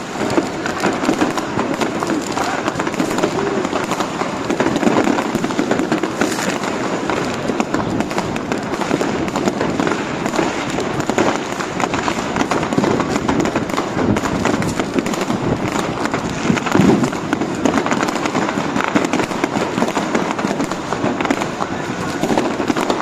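Street fireworks and firecrackers crackling and popping without a break, with a crowd's voices mixed in underneath.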